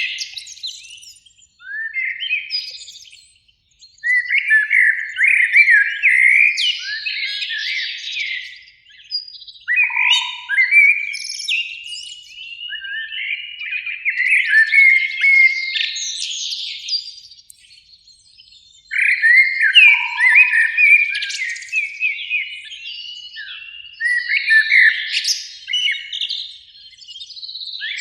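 Common blackbird singing: about six warbling, twittering phrases, each a couple of seconds long, with short pauses between them.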